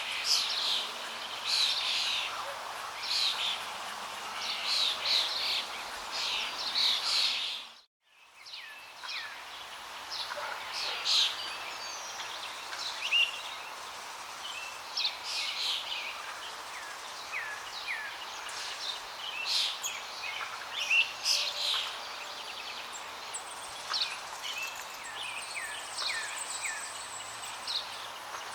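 Many small birds chirping and singing over a steady wash of flowing water. About eight seconds in the sound dips out for a moment, then comes back with a different run of birdsong, mostly quick falling chirps.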